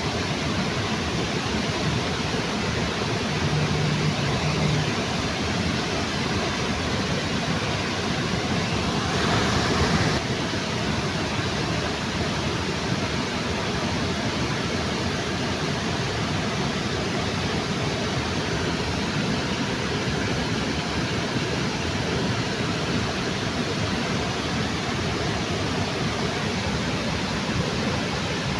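Steady rushing of water from a river waterfall, an even continuous roar, with a brief swell in the noise about nine seconds in.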